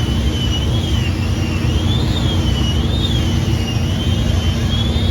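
Race car engines running, a steady loud rumble with a high whine that wavers up and down about once a second.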